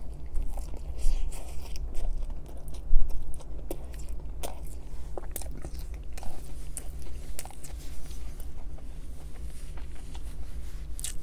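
Close-miked chewing of a mouthful of food: irregular wet clicks and small crunches, loudest about three seconds in.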